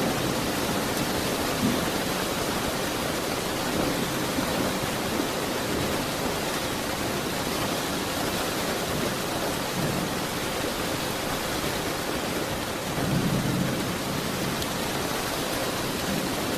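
Steady rain hiss, with a few low rumbles of thunder, the strongest about three-quarters of the way through.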